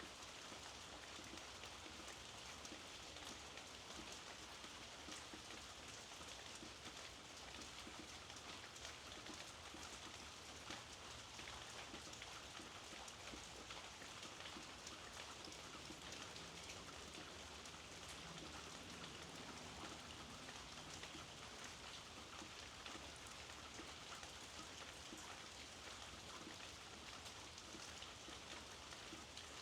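Steady light rain falling, a faint even patter of many small drops on surfaces.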